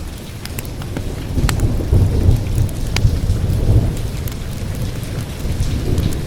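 Steady rain with a long rolling rumble of thunder that swells about two seconds in and then eases, over the sharp pops and snaps of a crackling fire.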